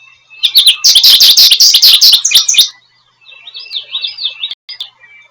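American goldfinch singing: a fast run of loud, high twittering notes, then a softer stretch of repeated curling, warbled notes in the second half.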